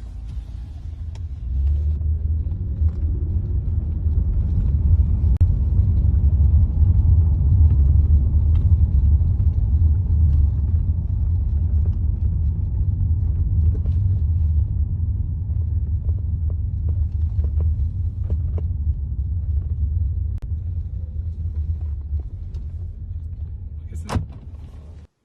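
Steady low rumble of a car on the move, heard from inside the vehicle. It ends with a sharp click shortly before the end.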